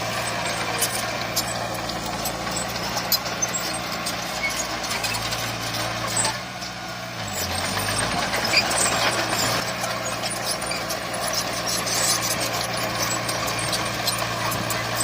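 Diesel engine of heavy earthmoving equipment running steadily, with clanking and rattling over it. About six seconds in, the engine note dips briefly in level and pitch, then comes back up.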